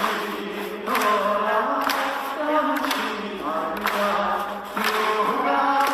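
Trot song performed live through a PA: singing over a backing track, with a sharp beat about once a second.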